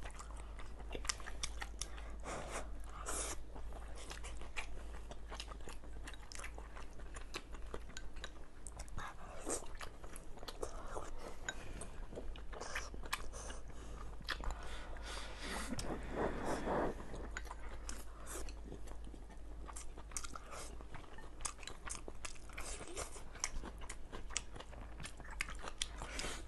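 Two people eating rice and stir-fried dishes with chopsticks: wet chewing and lip smacks with many short clicks, and a louder, longer mouth sound about sixteen seconds in.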